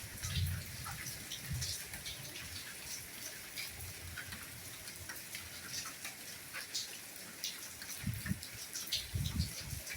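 Soft steady rain with individual drops pattering and ticking irregularly. A few low dull thuds come through, one about half a second in and two more near the end.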